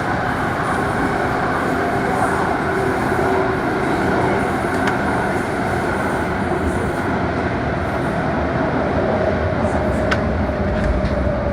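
MTR Tung Chung Line A-Train, an Adtranz-CAF electric multiple unit, running between stations, heard from inside the car: a steady, loud rumble of wheels and running gear. A steady tone rises over the last few seconds, and there are two brief clicks about 5 and 10 seconds in.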